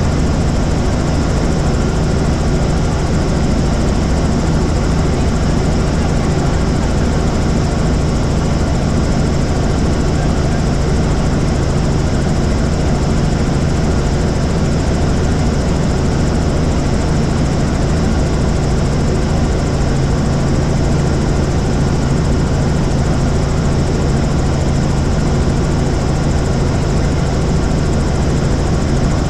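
Helicopter in flight: steady, unchanging engine and rotor noise with a deep hum.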